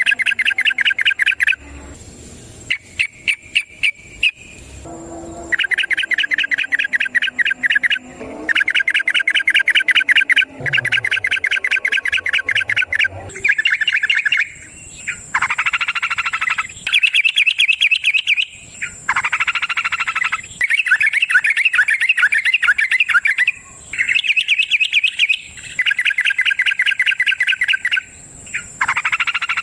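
Yellow-vented bulbul (trucukan) singing its long rapid trill, fast chattering notes repeated in bout after bout with short pauses between.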